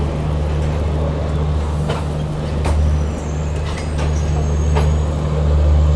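Passenger train rolling slowly alongside a station platform: a steady low rumble with a few faint clicks.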